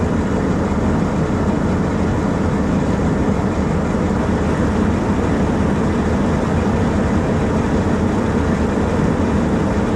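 Farm tractor engine running at a steady speed, a constant low drone.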